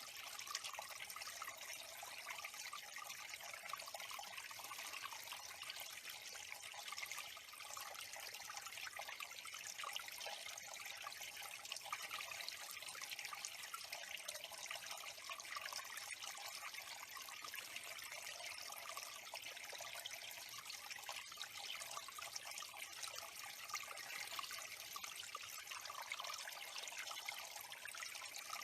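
Running water at a small bird pond, trickling steadily and evenly without a break.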